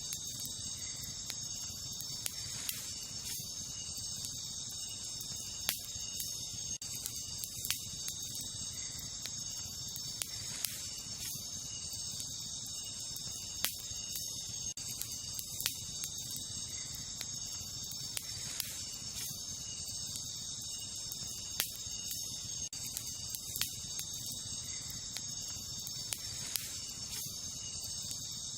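Wood campfire crackling, with sharp irregular pops every second or two, over a steady chorus of night insects trilling.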